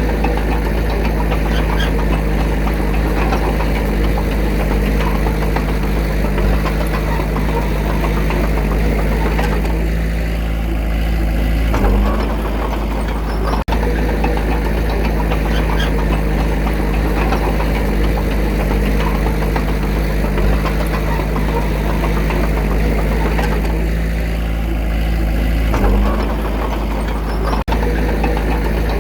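Diesel engine of a working earthmover running steadily with a rough clatter. Its note eases for a couple of seconds about ten seconds in and again near the end, each time ending in a brief jolt.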